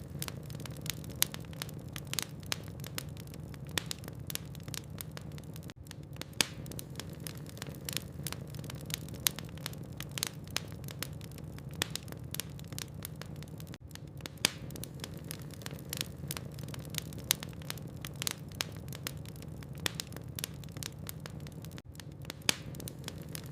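Wood fire burning in a fireplace: a steady stream of sharp crackles and pops from the logs over a low, even rumble of the flames.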